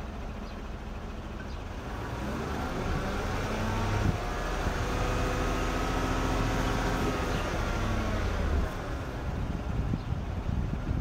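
GM pickup truck engine running through a Borla S-type stainless cat-back exhaust, its pitch rising and falling as it builds in loudness over the first few seconds.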